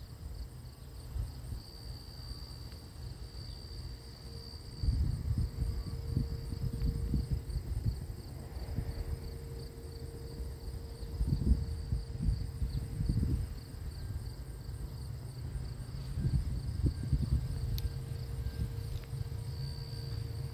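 Insects chirring steadily in a high, finely pulsing trill, over a low rumble that swells and fades several times.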